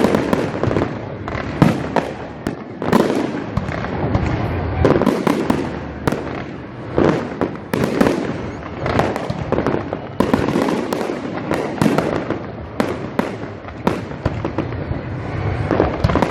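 Fireworks display going off in a dense, continuous barrage: many sharp bangs and crackling bursts overlapping, several a second.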